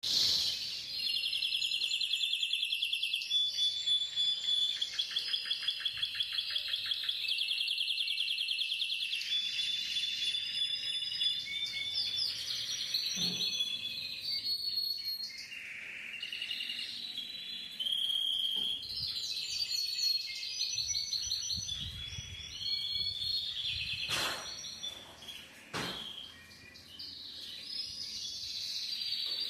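Domestic canary singing a long song of rapid trills and repeated chirping notes, with a stretch of quick pulsed notes early on and two sharp knocks near the end.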